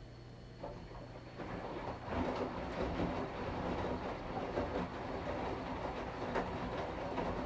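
Washing machine drum starting up: a low steady hum gives way, about two seconds in, to a louder, uneven churning of the drum and motor that keeps going.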